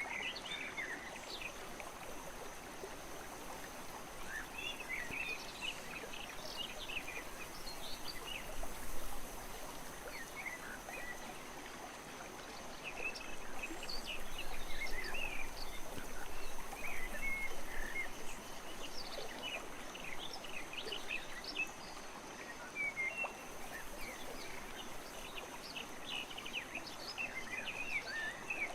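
Steady rain falling, heard as an even hiss, with many short high bird chirps scattered throughout and a constant thin high-pitched tone.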